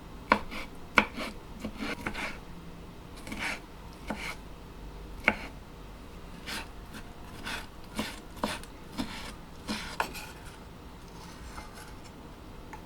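Kitchen prep handling sounds: a dozen or so sharp taps and knocks at irregular intervals, with short scraping and rubbing strokes between them, dying away after about ten seconds.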